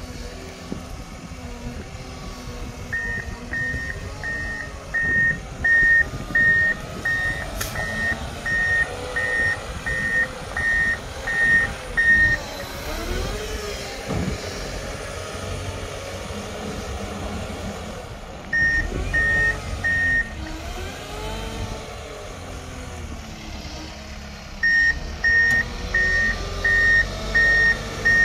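Reverse alarm on a snow-clearing vehicle beeping steadily, about one and a half beeps a second, in three runs as the vehicle backs up, over the diesel-type engine running and changing speed as it pushes snow.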